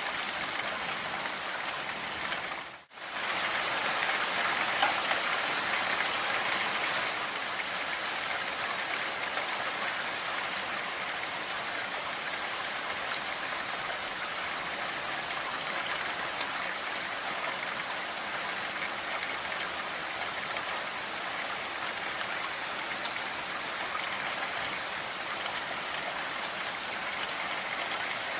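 Steady rain falling, an even hiss of drops. It cuts out for an instant about three seconds in, then comes back a little louder for a few seconds before settling.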